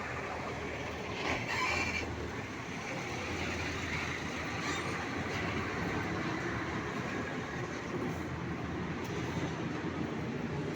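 Heavy diesel truck running, a steady rumble with rolling and rattling noise.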